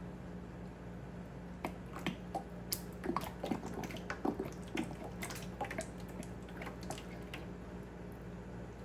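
Liquid soap ingredients being handled in lab glassware: a run of small wet drips and squishes with light clicks of glass, over a steady low hum.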